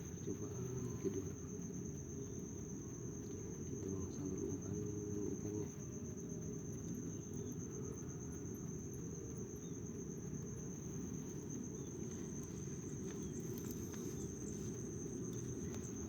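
A cricket's steady, unbroken high trill in the rice paddy, over a constant low rumbling noise.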